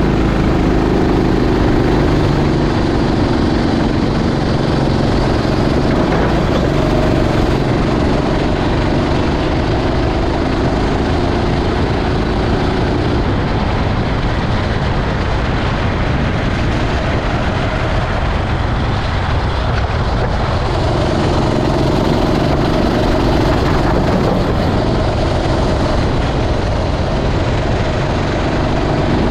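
Racing kart engine running under load, its pitch high and steady for a long stretch, falling away for several seconds around the middle, then picking up again, over a constant rush of noise.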